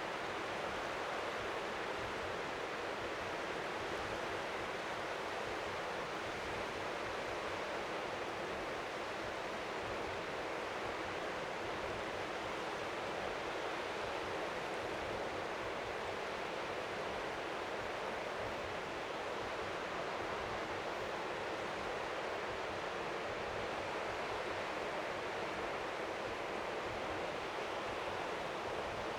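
Steady rushing noise of strong wind by the sea, with small waves lapping faintly on the shore underneath, making an even, white-noise-like hiss.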